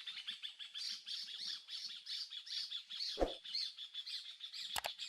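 Many birds chattering and calling together in quick, overlapping calls. There is a dull thump about three seconds in and a sharp click near the end.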